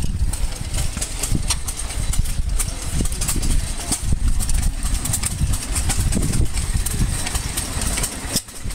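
An engine idling: a rough low rumble with frequent small clicks or knocks.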